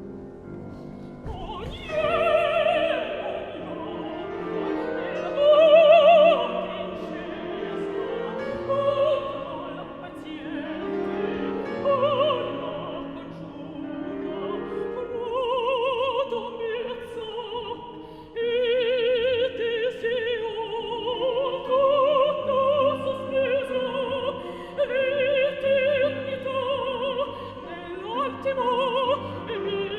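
Operatic singing in a high voice with wide vibrato, sustained phrases rising and falling over a quieter accompaniment.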